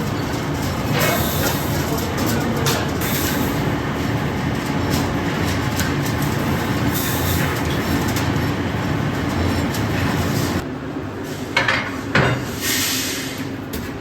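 Loud, steady metalworking machinery noise, with a drop in level after about ten and a half seconds and a couple of sharp metal knocks soon after.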